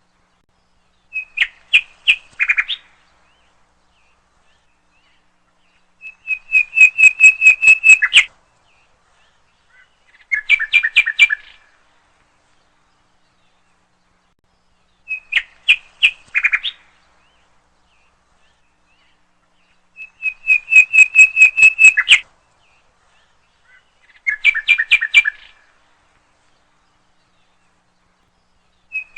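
A songbird singing short phrases of rapid, repeated chirping notes separated by silent pauses. The same three phrases repeat in the same order about every 14 seconds.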